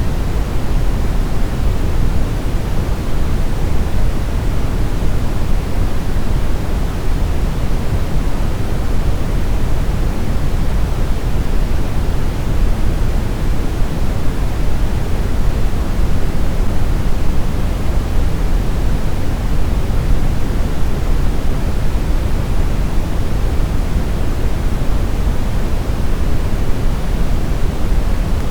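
Steady, smoothed brown noise: a constant deep rumbling hiss, strongest in the bass, with no changes or events.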